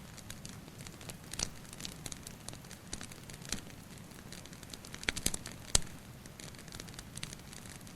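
Wood fire crackling, with irregular sharp pops and snaps over a steady low rumble; the loudest pop comes a little before six seconds in.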